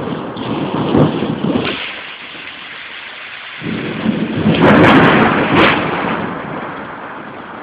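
Thunder rolling over steady rain. After a lull about halfway through, a louder peal builds, cracks sharply a few times at its peak, then rumbles away.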